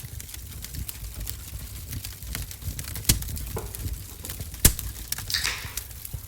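Wood fire in a wood-burning stove crackling, with scattered small ticks and two sharp pops about three and four and a half seconds in, and a brief hiss soon after.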